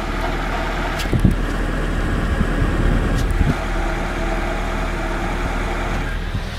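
Nissan SR20DE 2.0-litre inline-four engine running steadily, with a few short knocks about a second in and around three and a half seconds. The engine makes an unknown noise that the owner cannot identify.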